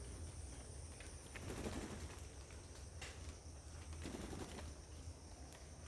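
Faint bird sounds: two soft, low bursts about two and a half seconds apart, with a few light clicks, over a steady low hum.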